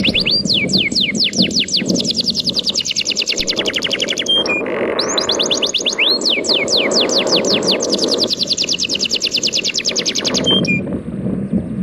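A songbird singing two long, rapid trills of descending whistled notes, about eight a second, with a short break about four and a half seconds in, over a steady low wash of sea waves.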